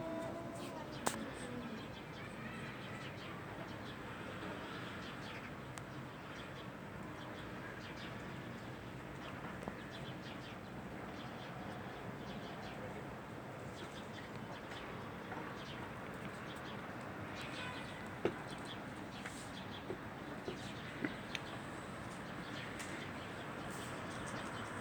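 Outdoor background with faint bird calls and a few sharp clicks; a cat's drawn-out yowl trails off in the first second.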